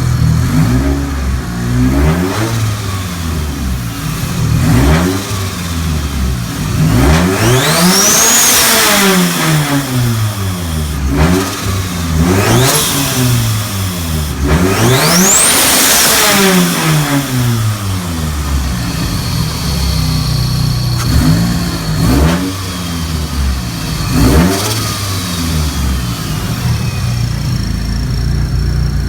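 Mitsubishi Lancer Evolution's turbocharged four-cylinder, fitted with a Garrett GT3076R turbo, free-revved repeatedly from idle. Two bigger revs, about 8 and 15 seconds in, bring a turbo whistle that climbs high and falls away as the revs drop, with shorter blips of throttle and idling between them.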